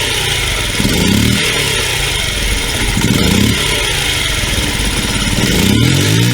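Honda Monkey Gorilla's 49cc single-cylinder four-stroke engine running with the throttle blipped repeatedly, the pitch rising and falling about every two seconds, with a sharper rise near the end.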